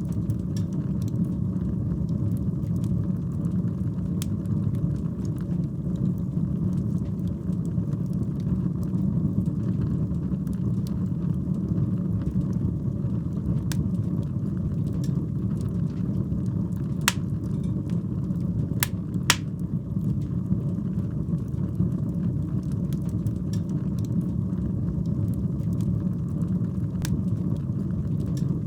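Wood fire burning in a fireplace: a steady low rumble of flames with scattered sharp crackles and pops, a few louder pops about two-thirds of the way through.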